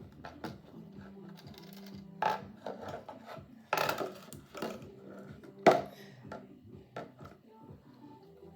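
Hands working an empty plastic water bottle and thread: scattered rustling with light plastic clicks and knocks, and one sharp click about halfway through.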